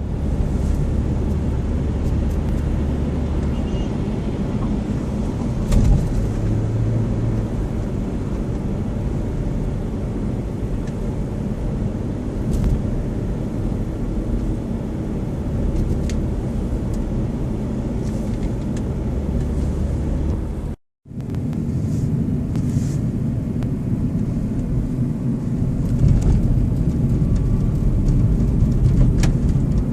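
Steady low outdoor rumble with a few faint clicks, cut off briefly about two-thirds of the way through and then resuming.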